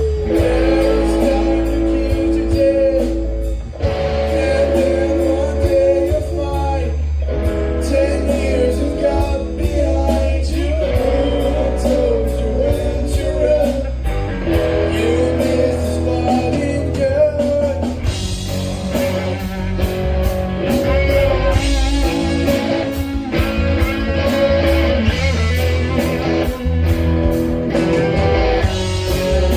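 Rock music: a band with singing, electric guitar, bass and a steady cymbal beat.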